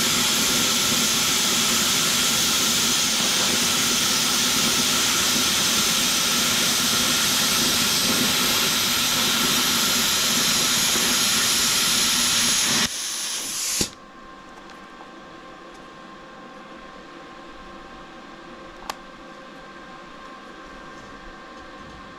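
Plasma cutter cutting steel plate: a loud steady hiss of the air and arc that drops off about 13 seconds in and cuts out a second later. Then a faint steady hum with a single click.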